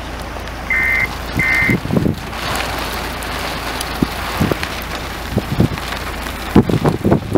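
Steady hiss of rain and wind, with two short electronic beeps about a second in. Gusts thump on the microphone, loudest in the last second.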